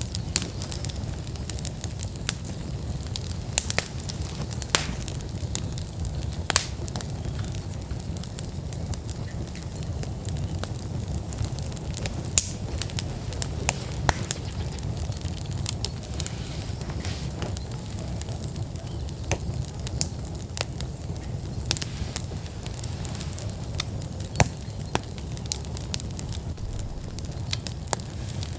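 Wood fire burning in an outdoor fire pit: irregular sharp crackles and pops from the burning logs over a steady low rumble.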